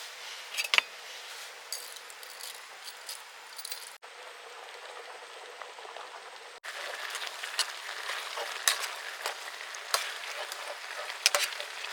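Food sizzling as it cooks: a steady hiss with scattered sharp pops and crackles. It cuts abruptly twice and is louder with more pops in the last third.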